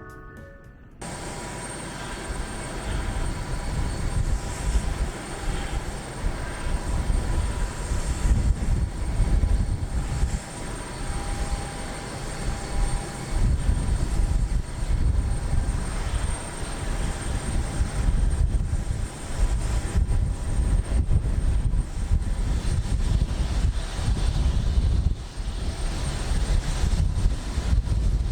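Airplane engine noise: a low rumble that swells and fades in waves, with a faint steady whine above it, starting about a second in.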